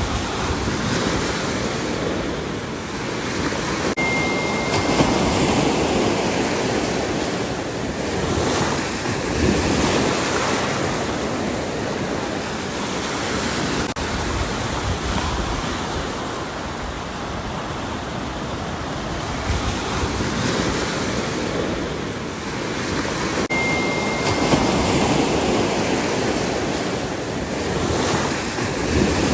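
Ocean waves breaking on a shore, the surf swelling and falling back every few seconds. A brief thin high tone sounds twice.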